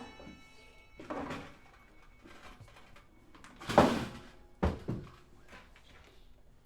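A struck chord dies away at the start. Then come three dull thumps, about one second, four seconds and four and a half seconds in, the middle one the loudest.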